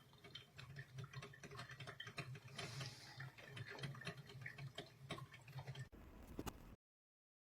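Hamilton Beach drip coffee maker brewing: many small irregular ticks and pops of water spitting and dripping through the machine over a low steady hum. It cuts off abruptly near the end.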